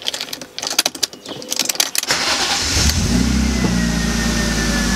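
BMW E36 engine being started: about two seconds of starter cranking and clicking, then the engine catches a little after two seconds, flares briefly and settles into a steady idle by about three seconds in. A thin, steady whine sits above the idle.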